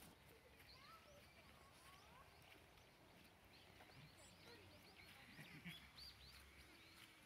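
Near silence with faint, scattered bird chirps: short rising and falling calls throughout.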